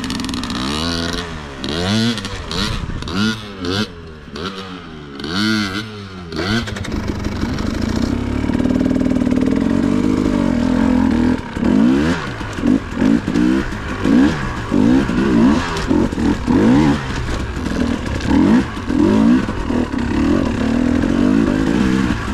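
Dirt bike engine revving up and down over and over as the throttle is worked, with pitch rising and falling about once a second for the first several seconds. It then steadies briefly, then rises and drops again in short repeated bursts of throttle.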